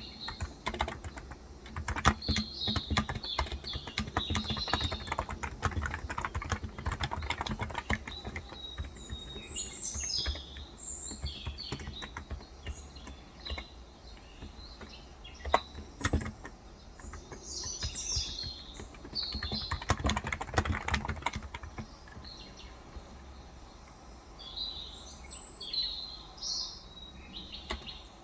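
Typing on a Cox Endeavour electrostatic capacitive (non-contact) tenkeyless keyboard with light 35 g switches: runs of quick keystrokes with short pauses. Birds chirp intermittently in the background.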